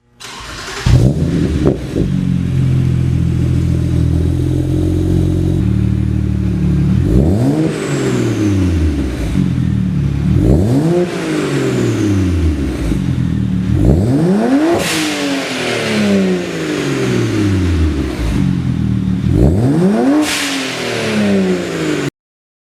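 BMW 135i turbocharged straight-six heard through its exhaust. A loud burst about a second in, then it idles steadily. From about seven seconds in it is revved four times, each rev rising quickly and falling back slowly, before the sound cuts off abruptly.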